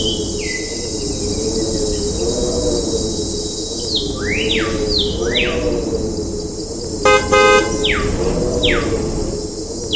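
Cartoonish schoolhouse ambience loop: a steady warbling low hum underneath, quick whistle-like chirps that slide in pitch scattered through, and two short horn toots about seven seconds in.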